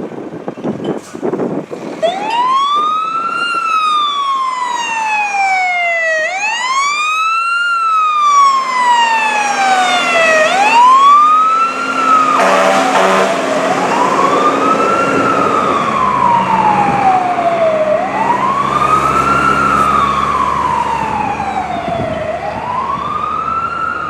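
Fire apparatus siren on a slow wail: each cycle climbs quickly, then slides down over about three seconds, repeating steadily. A truck engine runs underneath.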